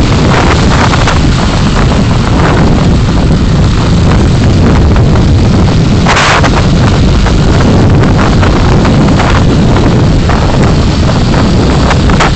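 Car dashcam recording of driving: a loud, continuous rumble of road and wind noise with buffeting on the microphone, close to overloading. There is a brief brighter hiss about six seconds in.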